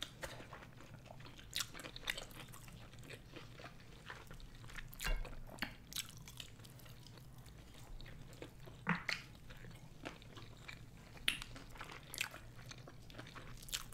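Close-miked chewing of sushi, with irregular wet mouth clicks and smacks.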